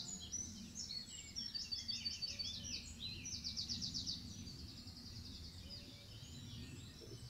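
Small songbirds singing: high chirps and a few quick trills that thin out toward the end, over a low steady rumble of outdoor background noise.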